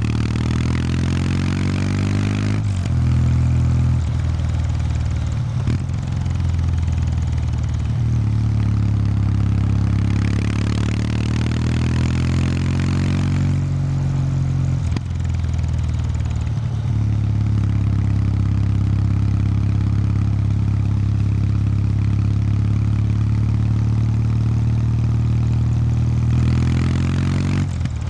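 Exhaust of a 2019 Kawasaki W800 Street's air-cooled parallel-twin engine, stock exhaust, on the move. Revs rise three times: at the start, about ten seconds in, and near the end. In between it runs at a steadier pitch with brief dips in the pull.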